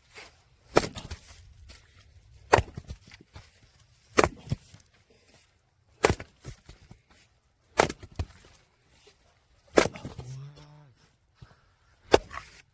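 Firewood being split: seven sharp, cracking blows at a steady pace of about one every two seconds.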